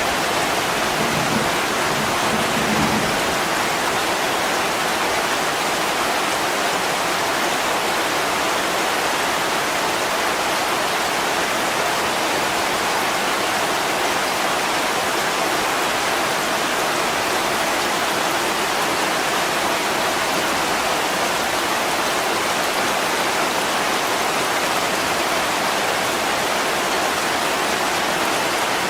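Heavy rain pouring steadily on a window, an even, dense hiss, with a faint low rumble about a second in.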